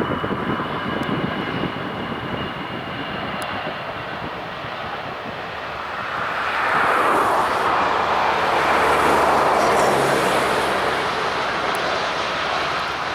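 Jet airliner's engines as it flies past: a broad rushing noise that swells about six seconds in, is loudest a few seconds later, and then slowly fades.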